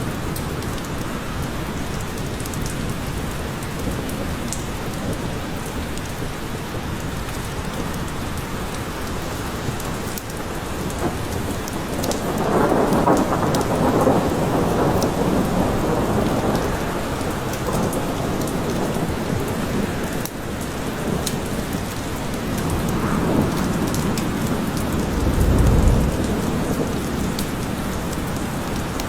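Steady heavy rain falling in a forest, with thunder rolling through it: a long swell of rumble about twelve seconds in, and a deep low rumble a few seconds before the end.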